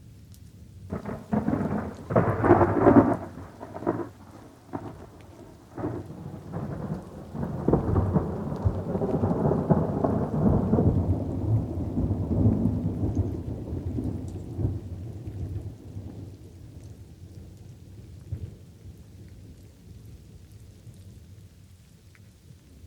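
Thunder over light rain: a run of sharp cracks begins about a second in, the loudest around two to three seconds, then turns into a long rolling rumble that slowly fades away. Light rain falls steadily underneath.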